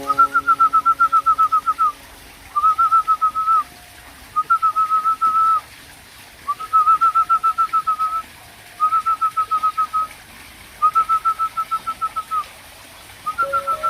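Diamond dove chicks giving high, whistled begging calls in rapid pulsed trains, about eight pulses a second. Seven bouts of one to two seconds each are separated by short pauses, over faint background music.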